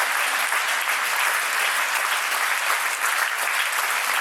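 A concert audience applauding steadily, a dense, even patter of many hands clapping.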